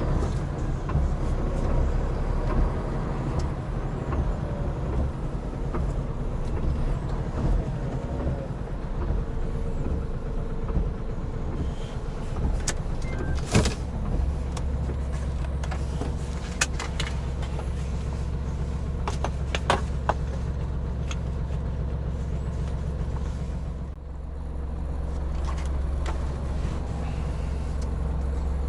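Hino Profia heavy truck driving at speed on a wet expressway: steady engine and road rumble with tyre noise on the wet road. A few sharp clicks come in the middle, and the level dips briefly about 24 seconds in before the rumble picks up again.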